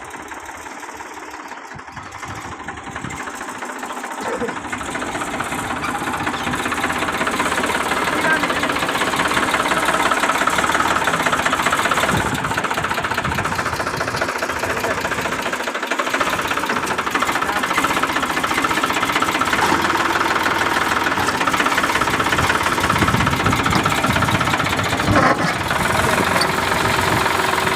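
Farmtrac 45 tractor's diesel engine running hard and steadily, growing louder over the first several seconds and then holding at a constant level.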